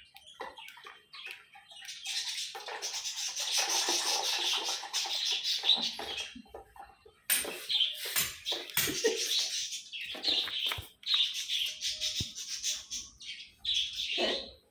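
Pet parrot bathing, splashing and fluttering its wings in the water in two long noisy bouts with brief pauses, with a few chirps.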